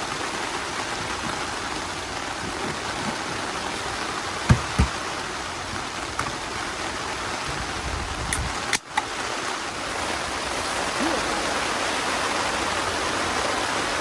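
Steady rushing of water, heavy rain or a stream. Two dull thumps come about four and a half seconds in, and the sound briefly drops out around nine seconds.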